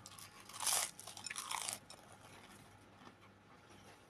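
Close-up mouth sounds of a piece of boiled chicken, held in the fingers, being bitten into and chewed. A loud noisy stretch comes in the first second, then crackly chewing for about another second, fading to quiet chewing.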